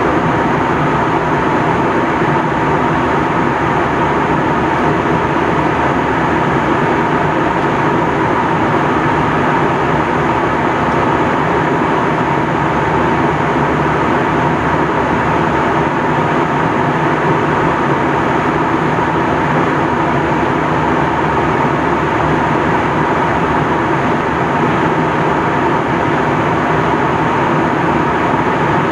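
Steady cabin noise of an Airbus A321 airliner in flight: a constant, loud rush of engine and airflow with a faint steady whine running through it.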